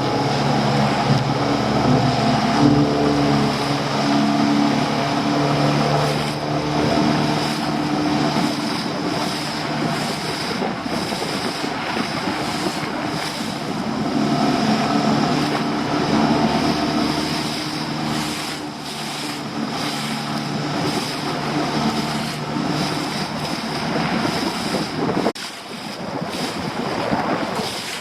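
A small fishing boat's engine running under power as the boat pulls away, over the rush of wind on the microphone and water around the hull. The engine note fades a few seconds before the end, leaving mostly wind and sea.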